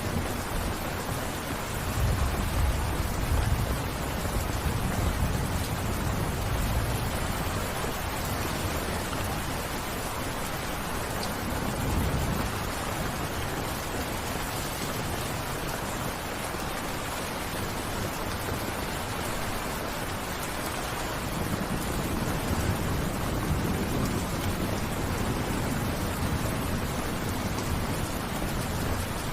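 Steady rain falling, with low rumbles of distant thunder swelling a few seconds in, briefly around the middle and again in the last third.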